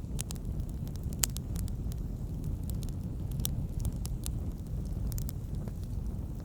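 Log campfire crackling: a steady low rumble of the flames with irregular sharp pops and snaps, one louder pop about a second in.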